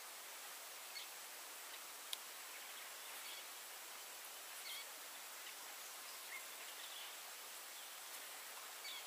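Steady outdoor hiss with a few faint, short bird chirps scattered through it.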